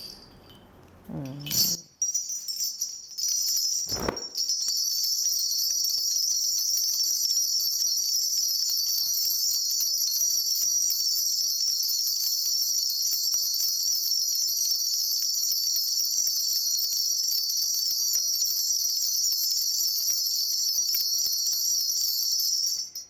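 A cluster of small brass bells, a Korean shaman's ritual bells (bangul), shaken in a steady, continuous jangle during a divination. There is a single dull knock about four seconds in.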